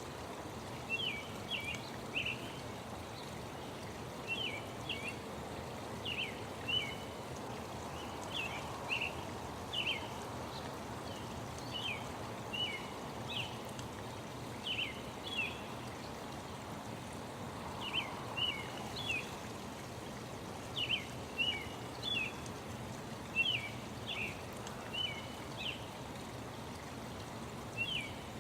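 Songbird chirping in short bright phrases of a few quick notes, about one phrase a second with a brief pause midway, over a steady background hiss.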